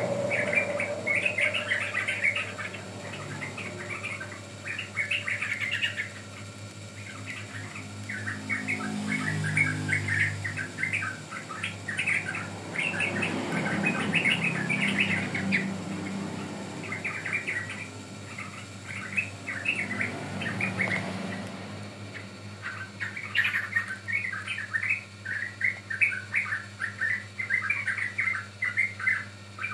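Young yellow-vented bulbul (trucukan) chattering in long runs of quick, high chirps, with brief breaks about twelve seconds in and again past twenty seconds. A low hum sits underneath through the middle stretch.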